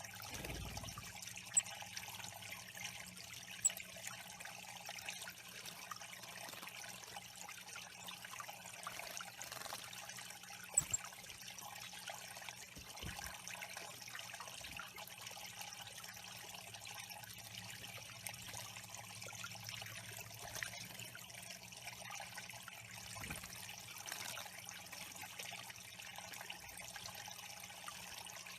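Water trickling steadily into a bird pond, with three brief high chips about one and a half, three and a half and eleven seconds in.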